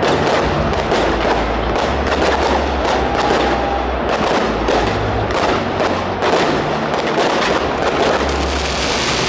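Fireworks going off in a rapid string of sharp bangs and crackles, several a second, with now and then a brief whistle.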